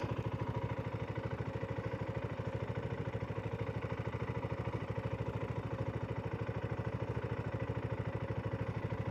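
Single-cylinder motorcycle engine idling in neutral, with a steady, even pulse that does not change.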